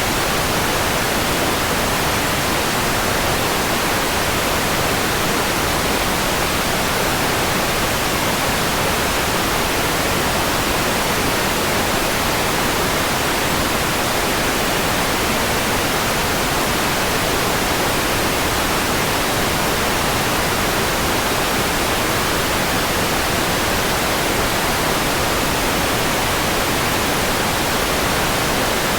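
Steady white noise: an even, constant hiss that does not change.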